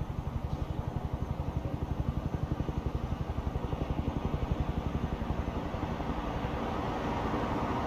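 A vehicle engine running close by with a rapid, even low throb, growing a little louder and smoother near the end.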